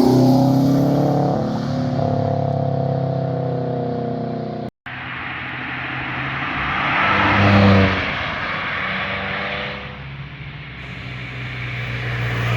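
Sports cars driving past on a winding mountain road, engine and exhaust loud. The first car's note slowly drops away. After a sudden break about five seconds in, a second car comes up, peaks and fades as it passes.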